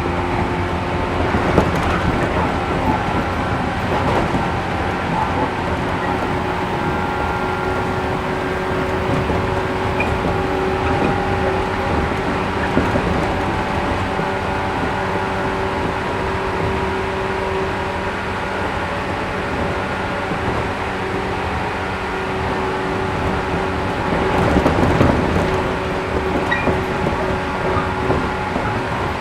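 Interior running sound of a 113 series 1500-subseries resistor-controlled electric multiple unit at a steady speed: a continuous rumble of wheels on rail under a hum of several steady tones. The noise swells briefly about twenty-five seconds in.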